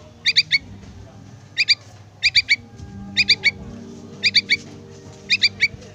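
Yellow-vented bulbul fledgling calling for its parent: short, sharp, high notes in quick groups of two or three, repeated about once a second, six groups in all.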